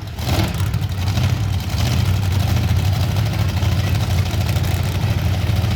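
Monster truck engines running loud and steady with a deep rumble.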